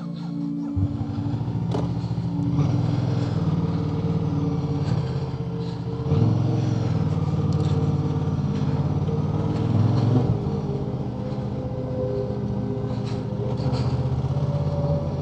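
Motorcycle engine running as the bike rides along the road. The note steps up and gets louder about six seconds in, then eases back about ten seconds in.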